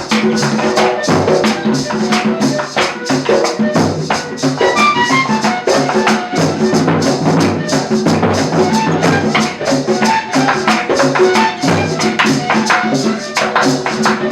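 Live cumbia band playing, with a steady fast pulse of shaken percussion over drums, bass and a melody line.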